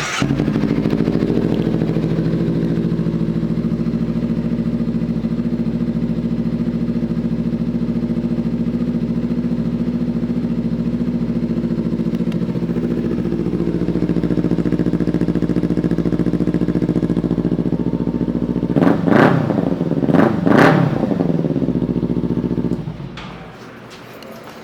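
2017 Kawasaki Ninja 300's parallel-twin engine with an aftermarket exhaust starting, then idling steadily. About nineteen seconds in the throttle is blipped twice, and the engine is shut off near the end.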